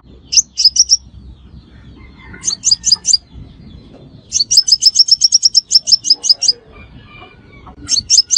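Sunbird (the Vietnamese 'xác pháo' sunbird) calling in quick runs of sharp, high chirps. Short bursts of four or five notes come before and after one long unbroken run of about twenty notes in the middle.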